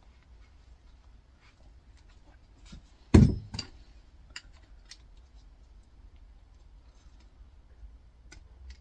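Hands and tools working at an air fryer motor's clipped copper winding to pull it out: scattered small clicks and taps, with one loud knock about three seconds in and a weaker one just after.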